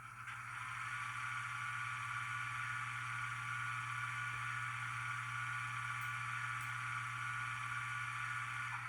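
Sound decoder in a TT-scale model of the DR class 211 electric locomotive playing its running sound through the model's small loudspeaker: a steady low hum under a hissing rush that swells up shortly after the start and then holds steady.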